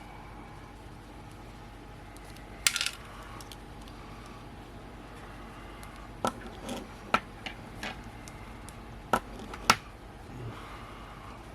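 Small metal tools and tiny lens parts clicking and clinking against a hard work surface during lens disassembly: a short cluster of clicks near the third second, then a string of separate sharp clicks between about six and ten seconds in.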